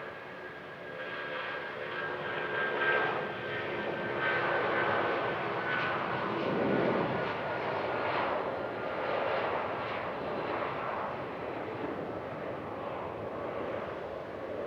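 Jet airliner's engines passing close by. The noise swells to a peak a few seconds in, with whining tones that slide down in pitch as it goes past, then eases off while still running.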